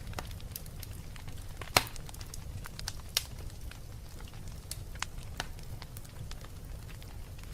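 Wood fire crackling in a fireplace: scattered sharp pops and snaps over a steady low rumble, the loudest pop coming just under two seconds in and another a little after three seconds.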